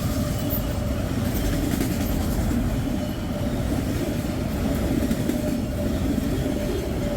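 A westbound freight train rolling past, a steady rumble of its cars on the rails.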